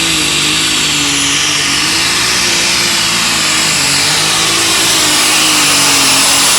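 Light super stock pulling tractor engine running hard at high revs, with a steady high whine over it, getting slightly louder toward the end.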